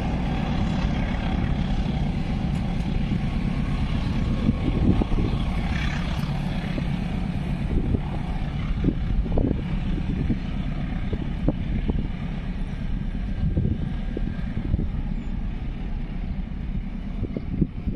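Passenger train running away along the line: a steady low rumble of wheels on rails with scattered short clacks, fading slowly as it recedes.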